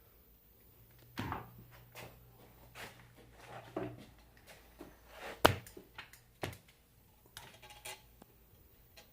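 Small metal tools and alternator parts being handled on a workbench: scattered clinks and taps, the sharpest about five and a half seconds in, with a short metallic rattle near eight seconds.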